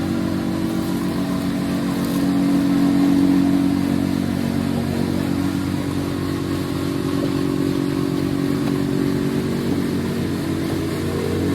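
A motor engine running steadily with a low, even hum. It swells a little a couple of seconds in, then settles.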